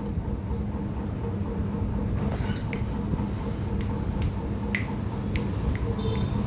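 A few short, high chirps and clicks from a small pet, scattered over a steady low hum.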